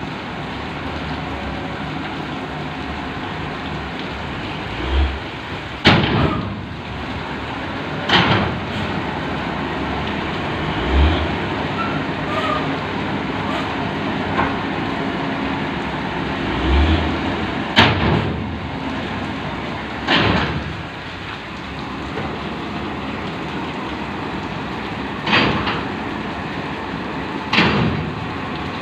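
Coal unloading in heavy rain: a steady wash of rain and machinery noise, broken by about half a dozen loud metallic bangs that each ring off briefly, with a few dull low thuds between them.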